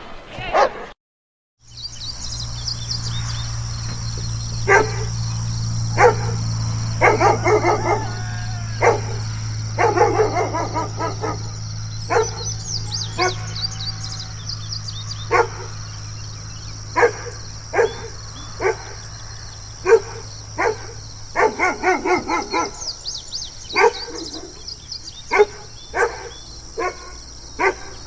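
A big dog barking again and again, with single barks and quick runs of barks, over a steady low hum.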